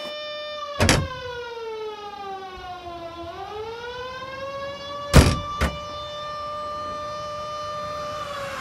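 A siren wailing. Its pitch falls slowly for about three seconds, rises back up, holds steady, and begins to fall again near the end. Sharp thumps cut across it about a second in and twice around five seconds in.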